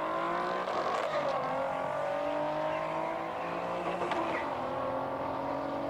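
Nissan 370Z and C7 Corvette Stingray engines accelerating hard in a drag race, the engine note climbing steadily in pitch.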